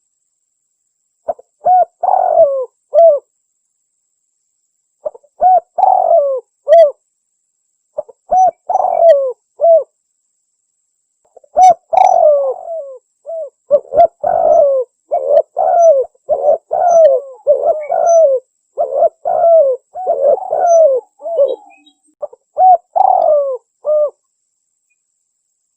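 Spotted dove cooing in repeated phrases of low, bending coos, played as a lure call for dove hunting. The phrases come singly with silent gaps at first, then from about halfway they run thick and overlapping before thinning out near the end.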